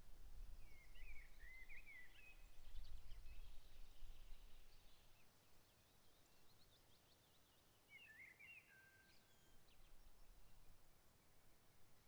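Faint birdsong: a songbird sings two short warbling phrases about seven seconds apart, with scattered thin chirps from other birds. A low rumble sounds in the first few seconds.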